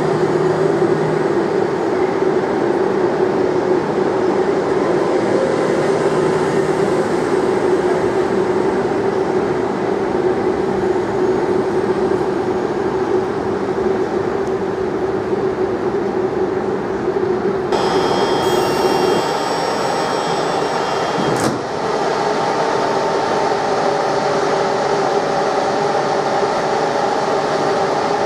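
Train running at a station: a steady rumble with a strong low drone. About two-thirds of the way through the sound shifts abruptly and high steady whining tones join it, with a sharp click a few seconds later.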